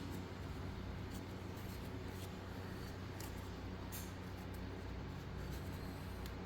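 Faint, light clicks and rustling from foam packing supports being handled and pulled off a plastic model locomotive, over a steady low background hum.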